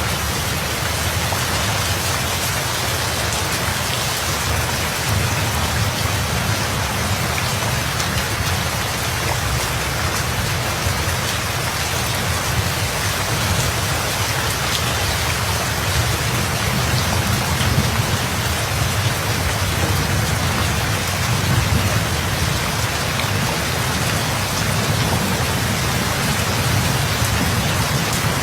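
Steady heavy rainfall pattering densely, with a low rumble of thunder underneath that swells a few times.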